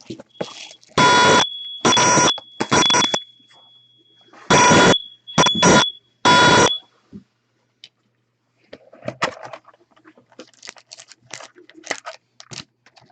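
Fire alarms going off: a steady high beep under a string of loud blaring pulses for about seven seconds, then cutting off. Faint clicks and rustling follow near the end.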